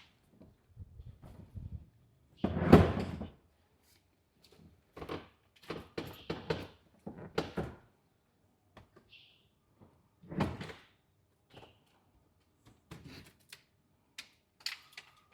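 Irregular thumps and knocks of people climbing into a light aircraft's cabin, with a heavy door-like thump about three seconds in, another thump about ten seconds in, and small clicks between.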